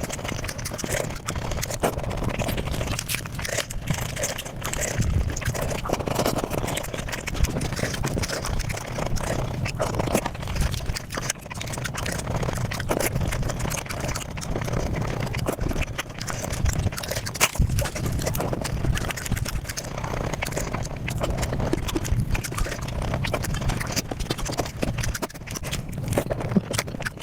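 Eating sounds played at five times speed: chewing and mouth noises run together into a rapid, continuous clatter of clicks.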